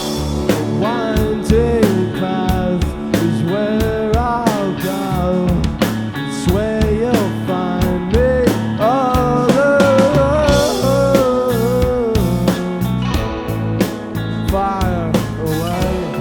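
Live rock band playing an instrumental passage: steady drum hits and bass under guitars, with a gliding, bending lead melody over the top.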